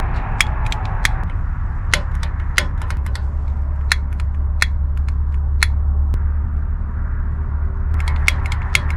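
A series of sharp igniter clicks, irregularly spaced and bunching up near the end, as someone tries to light a portable camp burner that has not yet caught. A steady low rumble runs underneath.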